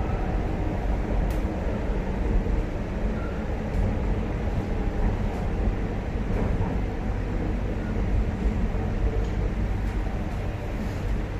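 Inside the cabin of a China-made MTR Tuen Ma Line electric train running at speed: a steady low rumble of wheels on rails and running gear, with a few faint clicks.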